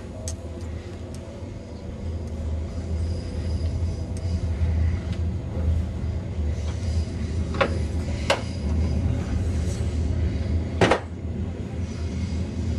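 Steady low rumble of a moving passenger train, heard from inside the carriage. Three sharp knocks come in the second half, the last the loudest.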